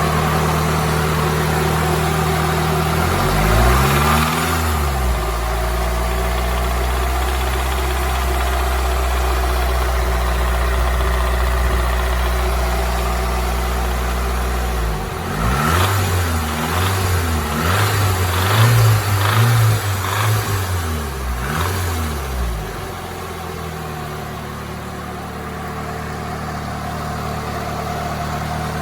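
Nissan SR20DET turbocharged 2.0-litre inline-four with forged internals idling, revved once about four seconds in, then blipped repeatedly through the middle before settling back to idle. Above about 1800 rpm it makes a rattle or knock that the owner asks about as possible rod knock, piston slap or a loose timing chain.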